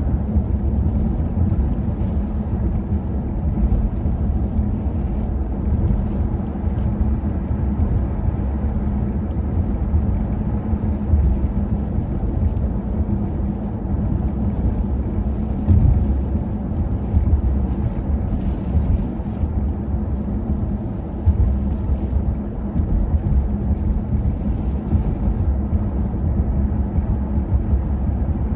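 Wind buffeting the microphone in a blizzard: a loud, gusty low rumble, over a steady low hum.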